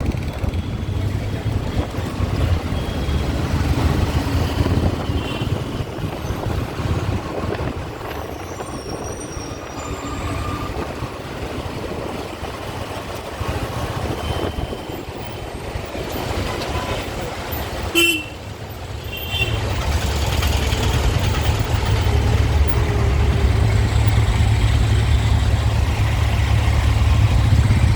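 City road traffic heard from a moving bike: vehicles running with a heavy low rumble and occasional horn toots. A sharp click comes about eighteen seconds in, after which the rumble grows steadier and louder.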